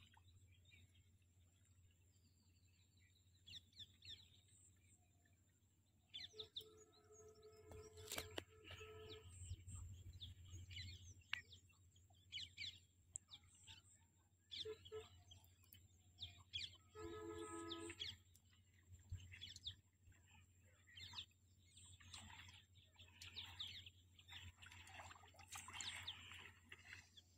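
Faint birds chirping, many short scattered calls, with two longer steady-pitched calls about seven and seventeen seconds in, over a low steady hum.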